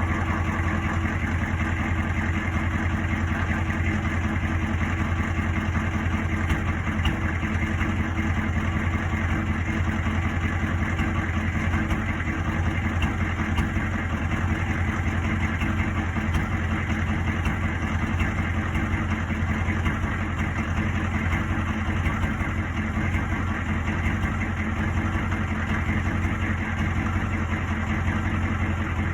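1984 Ford F-250's engine idling with a misfire, the running held at an even level.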